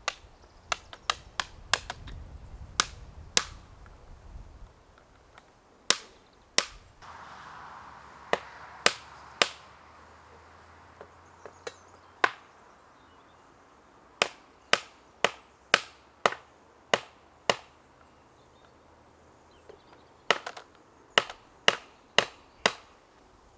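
Felling wedges being hammered into a saw cut to free a pinched chainsaw bar. The blows are sharp single strikes, irregularly spaced, coming in runs of several quick blows with short pauses between.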